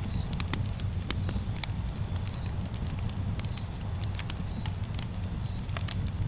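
Campfire crackling: irregular sharp pops and snaps over a low, steady rumble. A short high chirp repeats about once a second.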